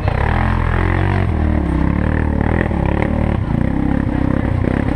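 4x4 ATV engine running as it is ridden, its pitch rising and falling with the throttle, with a few knocks and rattles.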